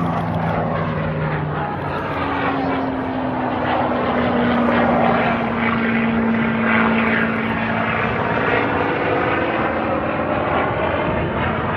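Propeller-driven aircraft flying past, a steady engine drone whose pitch slides slowly down as it passes.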